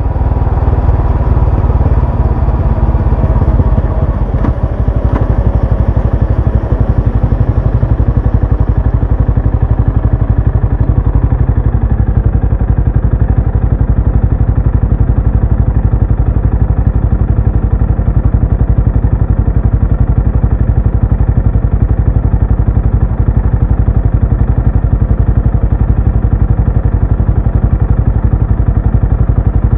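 Benelli Imperiale 400's single-cylinder engine running through its exhaust in a steady, even stream of low pulses.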